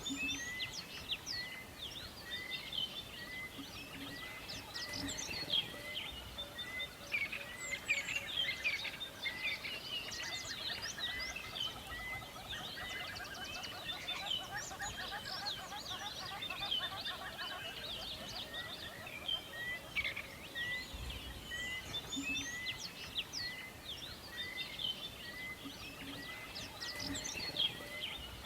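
Several birds singing and chirping at once in a forest dawn chorus. One bird repeats a short note at an even pace of somewhat under two a second throughout, and a rapid trill joins in the middle.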